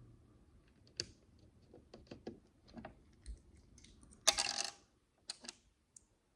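Small plastic micro bricks clicking as they are handled, in scattered light clicks, with one louder half-second clatter a little past four seconds in.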